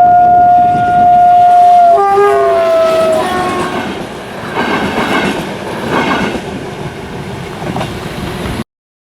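Train horn sounding a long loud blast and then a second, slightly lower note that sags in pitch, followed by the train's wheels clattering over the rail joints as it passes. The sound cuts off abruptly near the end.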